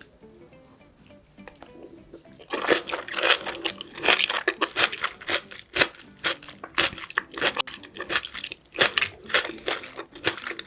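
Close-miked chewing of braised pork back ribs and kimchi, wet and crunchy, beginning about two and a half seconds in and continuing in quick irregular bites.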